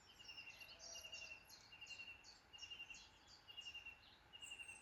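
Faint evening woodland birdsong: one bird repeats a short trilled phrase a little more often than once a second, with higher chirps from other birds over it.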